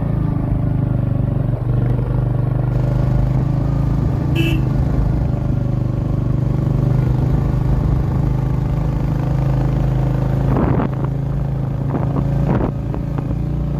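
Motorcycle engine running steadily under way, with a short high beep about four seconds in.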